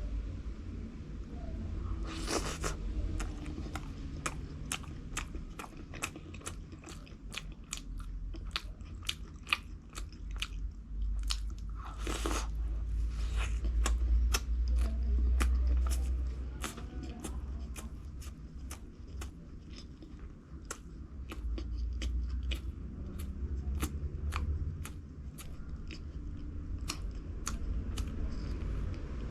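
A person biting and chewing crunchy food: a steady run of crisp crunches, roughly two or three a second, with two louder, longer bites, one about two seconds in and one about twelve seconds in.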